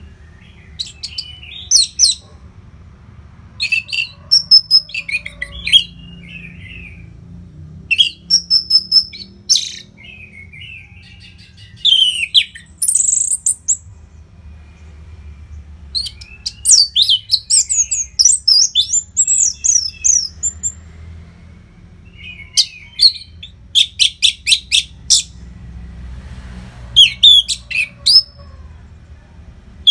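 Orange-headed thrush singing a run of varied, whistled phrases separated by short pauses, some of them fast trills of rapidly repeated notes.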